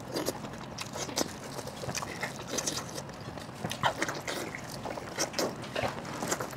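Close-miked wet biting and chewing of braised sheep head meat, with irregular smacking mouth sounds.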